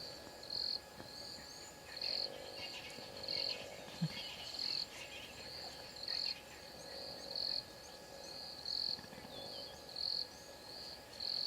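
Bush ambience dominated by an insect chirping over and over, a short high chirp about once a second, with faint bird calls above it. A single brief low knock sounds about four seconds in.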